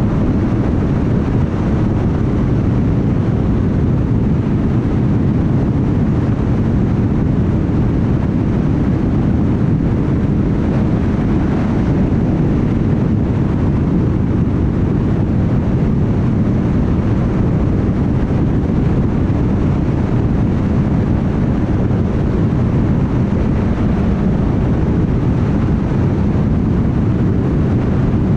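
A car cruising steadily at highway speed: a constant low rumble of tyres on the road, mixed with wind noise.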